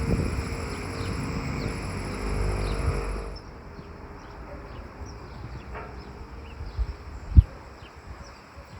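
Outdoor countryside ambience. A steady hum with a high, insect-like buzz cuts off abruptly about three seconds in, leaving quieter ambience with small bird chirps and a single low thump near the end.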